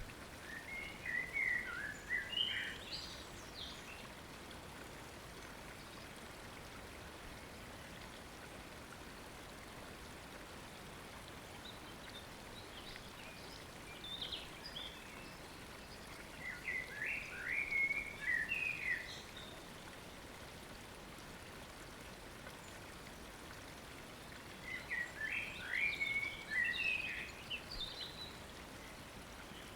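A songbird singing three short phrases of quick, high chirping notes, near the start, in the middle and near the end, over the steady hiss of a flowing stream and dripping water after rain.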